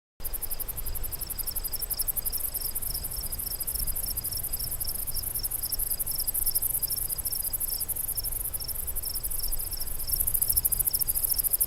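Insects chirping: a continuous, very high, fast-pulsing trill with a lower chirp repeating about two to three times a second.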